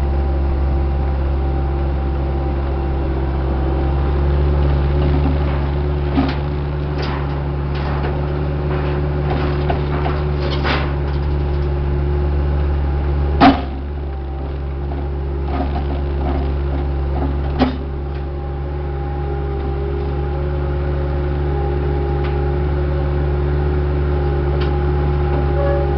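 Diesel engine of a construction machine running steadily under a constant drone, with a few sharp clanks, the loudest about halfway through.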